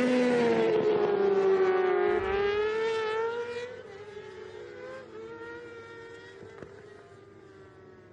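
Racing motorcycle engines running at high revs on a race track. The engine note wavers in pitch, then drops away and fades over the second half as the bikes pass and move off.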